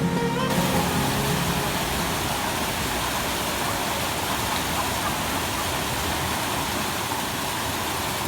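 Waterfall rushing, a steady noise of falling water. The tail of guitar music fades out in the first second or two.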